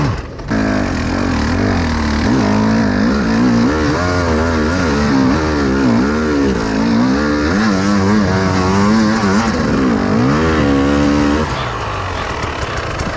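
Enduro motorcycle engine revving up and down over and over as the bike is ridden, dropping off about eleven seconds in.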